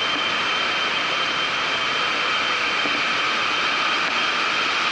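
Steady, loud machine noise: an even rushing sound with a thin, constant high whine through it.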